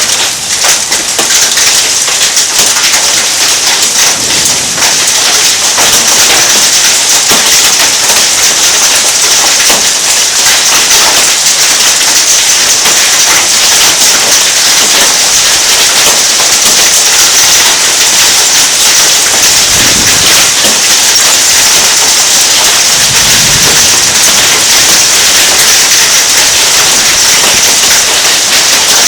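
Hailstones and heavy rain pelting down in a thunderstorm: a loud, steady downpour hiss crowded with sharp, rapid impact clicks.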